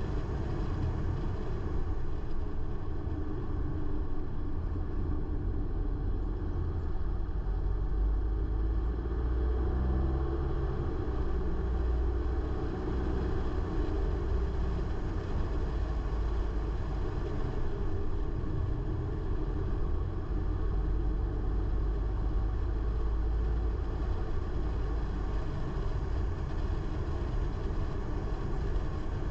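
Car driving along a road: a steady low rumble of engine and tyres, with a slight change in engine pitch about halfway through.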